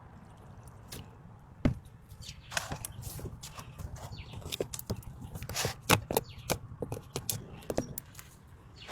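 Irregular knocks, clicks and scrapes of hard objects being handled, with a sharp knock about two seconds in and a cluster of loud clicks about six seconds in.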